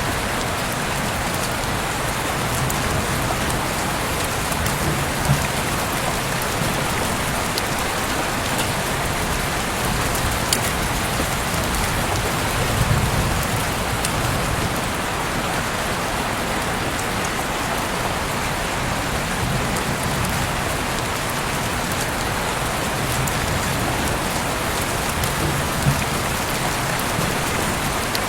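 Heavy rain falling steadily, an even hiss with now and then a single louder drop tick.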